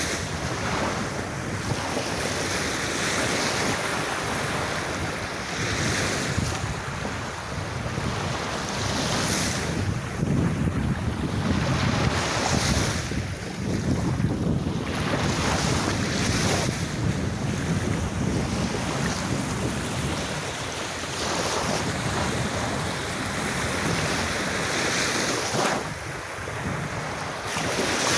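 Sea waves breaking and washing up a sandy beach, the surf swelling and easing every few seconds.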